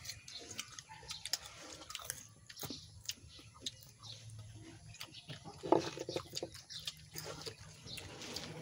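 Close-up chewing and crunching of raw jicama (singkamas) pieces, with scattered crisp crunches and one louder one a little past halfway.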